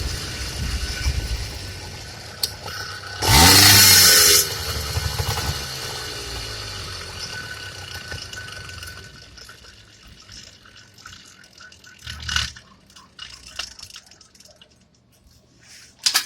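Motorized bicycle's two-stroke kit engine running low and dying away over about ten seconds, with a loud one-second rush and rising whine about three seconds in. Scattered faint knocks follow.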